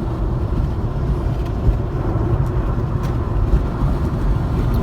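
Car driving at highway speed: a steady low rumble of tyre and road noise, heard from inside the car.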